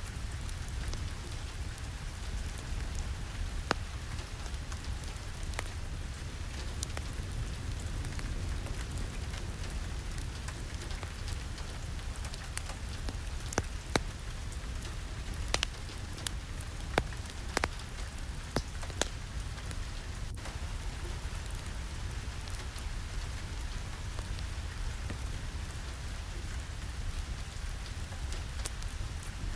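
Steady rain, with a deep low rumble underneath and scattered sharp ticks, most of them in the middle.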